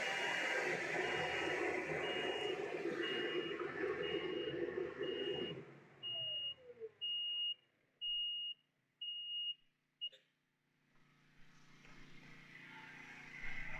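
Skid steer engine running, then shut off about six seconds in, its sound falling away. A high warning beeper sounds about every 0.7 s throughout and keeps beeping after the engine stops, then cuts off with a click near ten seconds in.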